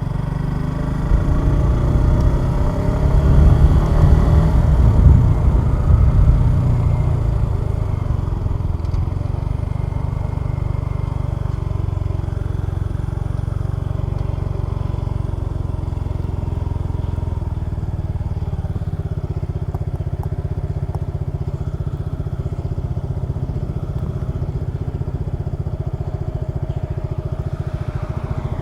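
Suzuki Gixxer 150 SF motorcycle's single-cylinder engine under way, accelerating louder and rising in pitch over the first several seconds, then running steadily.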